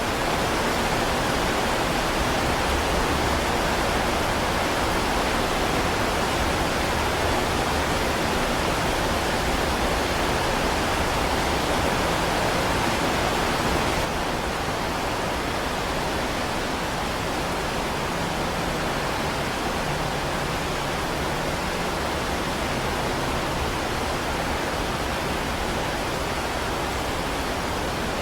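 Heavy rain falling as a steady, dense hiss, dropping slightly in level about halfway through.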